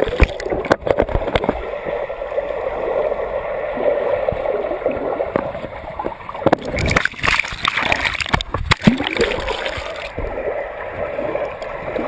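Turbulent water splashing and gurgling, broken by irregular knocks and a few louder thumps.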